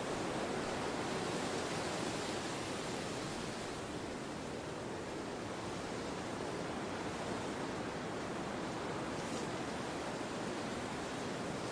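Steady wind noise, a soft even rush that swells and eases slightly.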